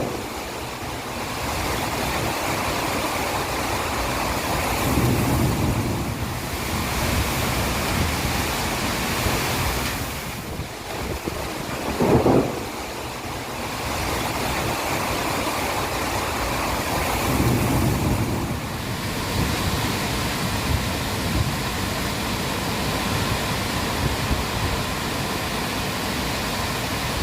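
Strong summer-storm wind blowing in gusts and buffeting the microphone, with a short louder blast about twelve seconds in.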